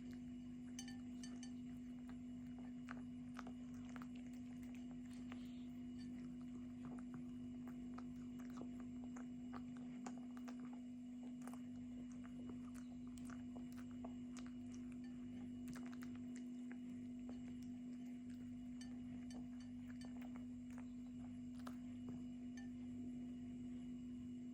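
A cat chewing and biting chicken: faint, irregular wet clicks and small crunches, over a steady low hum.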